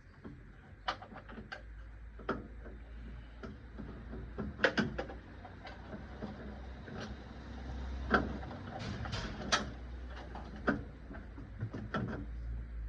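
Irregular clicks and knocks of metal hand tools and parts being handled while working on a car engine, over a low steady rumble.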